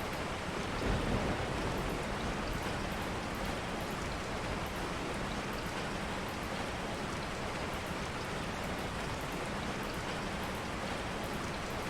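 Steady rain falling, an even hiss of drops, with a brief low rumble about a second in.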